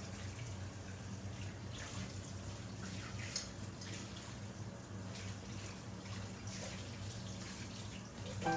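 Water running from a tap into a sink, over a low steady hum.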